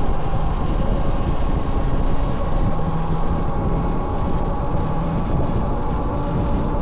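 Wind rushing over the microphone while riding an electric bike, with a steady whine from the motor.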